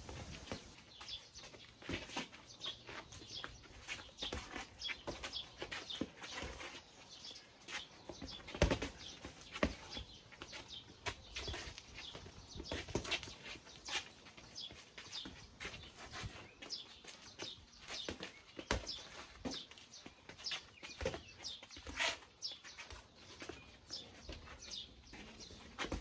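Birds chirping in short, irregular calls, mixed with scattered knocks and clicks, the loudest about nine seconds in.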